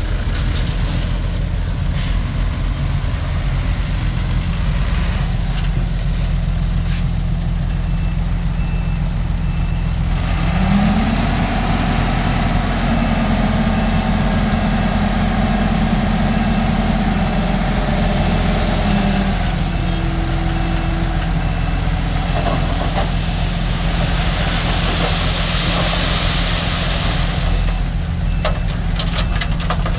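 Heavy diesel earthmoving machinery running steadily. About a third of the way in, the engine rises in pitch and works harder for several seconds, then settles. A reversing alarm beeps in short runs, and a hiss comes near the end.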